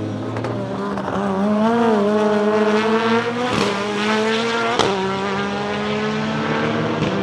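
Turbocharged BMW S14B20 four-cylinder in a BMW E36 time-attack race car at full throttle, its engine note climbing in pitch. The note breaks briefly three times as the sequential gearbox shifts, and the second break comes with a sharp crack.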